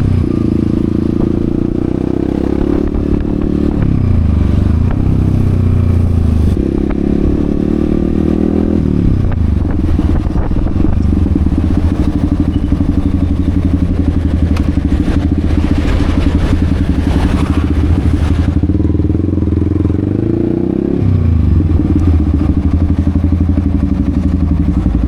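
Yamaha XSR155's single-cylinder engine running while the bike is ridden, its note dropping and climbing several times as the revs change. A brief rush of noise comes in past the midpoint.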